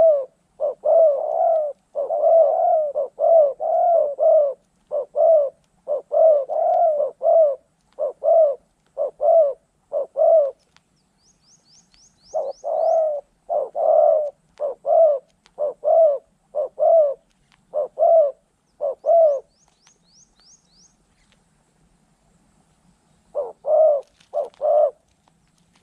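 Spotted dove cooing: quick runs of short, low coos about two a second, broken by pauses of a few seconds, with a short run near the end. A faint run of high chirps falls in each of the two pauses.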